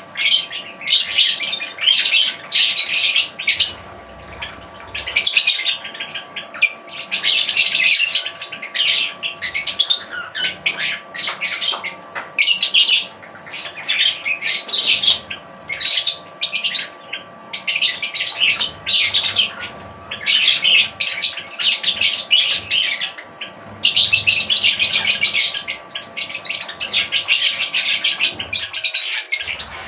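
Many small birds chirping and squawking in dense, overlapping bursts with short lulls between. A faint steady hum runs underneath and stops shortly before the end.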